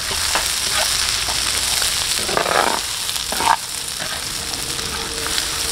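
Raw cut long beans sizzling as they stir-fry in a wok with chili and shallot paste. A couple of short scrapes of the metal spatula against the pan come about two and a half and three and a half seconds in.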